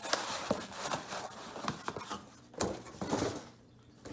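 A cardboard box and its packing being handled and opened by hand: rustling with scattered clicks and knocks, a couple of louder knocks past the middle, then quieter near the end.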